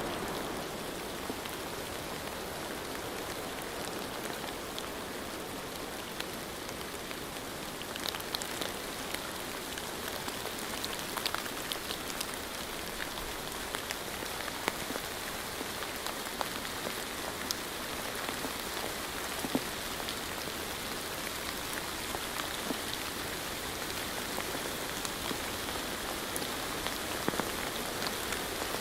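Steady rain falling, with individual drops ticking sharply on a surface; the drop ticks become more frequent and distinct about eight seconds in.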